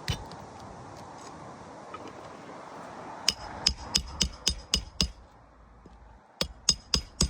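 Hammer driving roofing nails into an asphalt shingle: a run of about seven quick, ringing strikes, a short pause, then four more.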